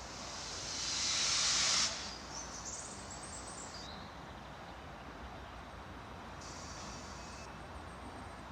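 A loud hiss swells over about two seconds and cuts off sharply, leaving a steady rushing background noise.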